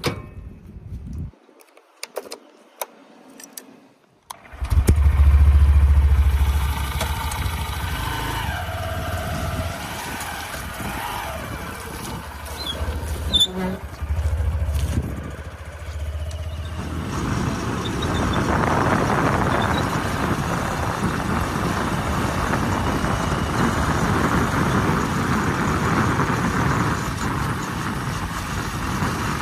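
A tractor engine starts about four seconds in and keeps running. A rougher, louder noise joins it past the middle.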